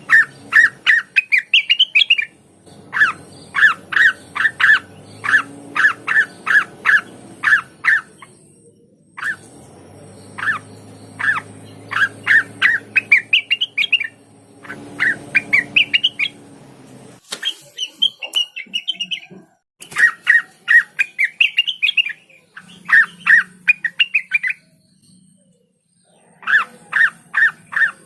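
Cucak wilis, a leafbird, singing in loud runs of sharp repeated chip notes, about three a second. The runs are mixed with quick phrases that rise in pitch and break off in short pauses.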